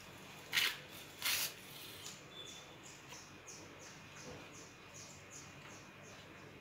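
Two brief rustling noises, then a run of short, high falling chirps, about three a second, like a small bird chirping.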